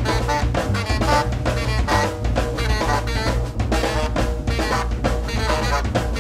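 Live jazz trio of saxophone, drum kit and bass playing together. The drums keep up a dense stream of strikes under the saxophone line, over a low, steady bass.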